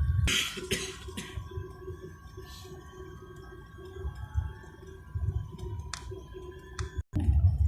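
Airbus A380 jet engines whining steadily at low power over a low rumble, with a short rattle about half a second in. Near the end the sound drops out for a moment and returns as a louder rumble.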